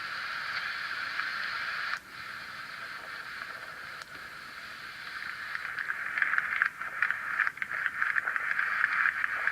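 A steady static-like hiss that grows louder and crackles from about six seconds in.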